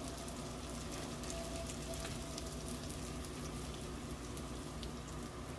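Dough dumplings frying in a pan of hot oil: a steady sizzle with fine, rapid crackles.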